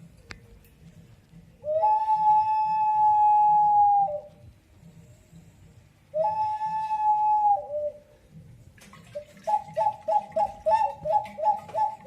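Ceramic whistle jar, a replica of an ancient Peruvian whistling vessel. It gives two long steady whistles, each dipping to a lower note as it ends, then a quick bird-like warble that flips between two notes about three times a second.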